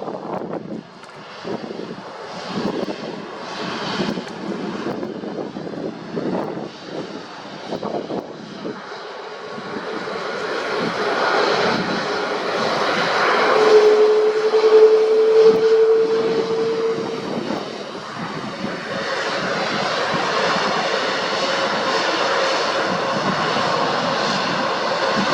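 Airbus A330-343 jet engines at takeoff thrust. The noise is uneven at first, then swells to a peak with a clear, slightly rising whine about halfway through. After that it settles into a steady roar with a hum.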